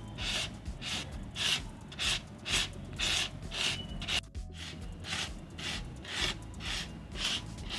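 Rhythmic rubbing or scraping strokes, about two a second, with a short pause a little past halfway.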